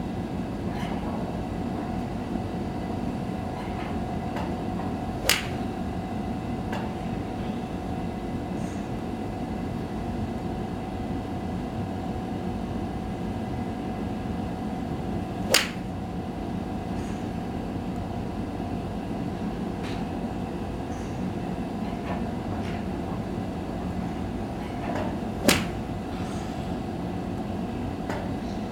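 An 8-iron striking a golf ball three times, about ten seconds apart, each a single sharp crack, over a steady background hum.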